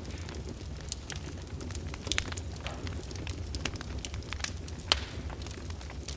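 Wood fire crackling in a fireplace: irregular sharp pops and snaps over a steady low rumble, with one louder pop a little before the end.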